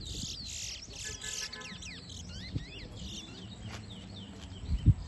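Caged towa-towa seed finches singing in a song race: quick sliding high chirps and whistled notes with a short trill, each full song being counted by the judge. A single brief low thump near the end.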